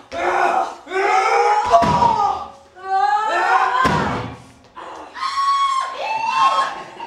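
Shouting and yelling voices with two heavy thuds, about two and four seconds in, of bodies slamming onto a stage floor in a staged wrestling bout.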